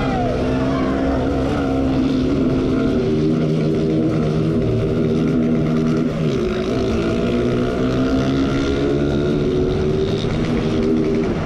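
Motorcycle engine running hard at high revs. Its pitch drops about six seconds in, then climbs again.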